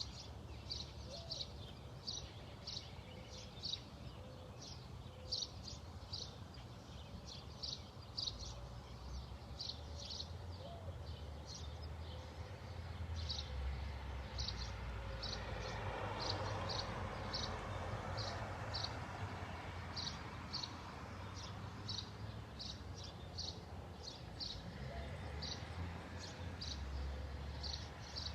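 A bird chirping over and over, short high chirps about two a second, without a break. A broad rush of background noise swells up and fades in the middle.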